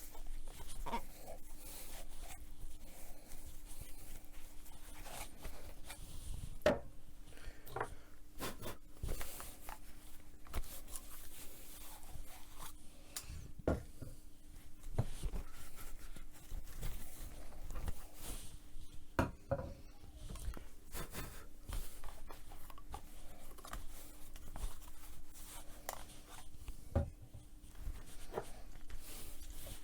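A cloth rubbing and wiping small plastic tubes and bottles, with scattered light knocks and clicks as they are handled and set down, over a faint steady hum.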